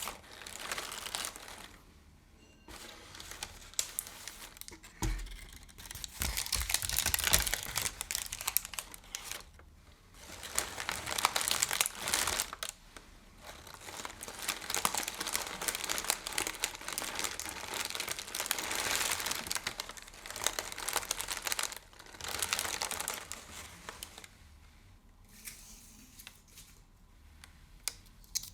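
Close-up crinkling and rustling of a crinkly material handled by hand, in long spells with short pauses and quieter near the end. A few dull thumps about five to seven seconds in.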